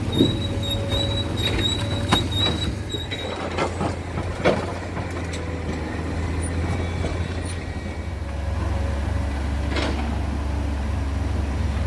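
Heavy diesel machinery running with a steady low drone, with sharp metallic clanks and knocks at irregular moments and a thin high whine over the first few seconds.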